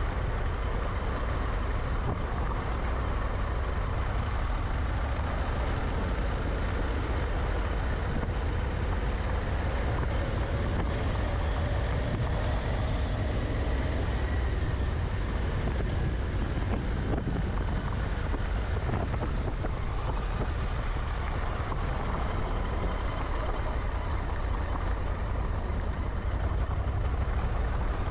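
Honda Africa Twin motorcycle engine running at steady riding speed, heard from on board along with tyre noise on gravel. Its note rises a little and eases off again around the middle.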